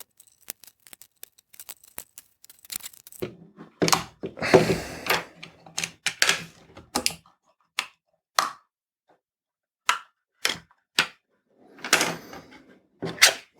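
Plastic housing of a Dyson vacuum battery pack being pried open with a metal tool: a run of quick sharp clicks and ticks, with several louder scraping, cracking bursts as the clips give way.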